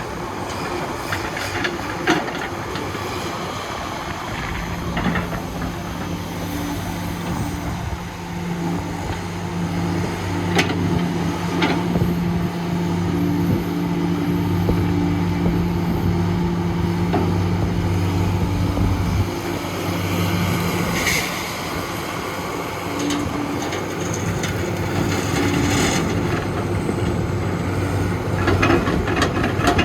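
Diesel engine of heavy construction machinery running steadily, with a few sharp metallic knocks.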